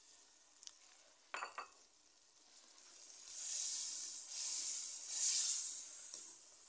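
Onion-tomato masala sizzling as it fries in a large aluminium pot while a steel ladle stirs it. A few ladle clinks against the pot come in the first two seconds, then the sizzle swells in three surges in the second half.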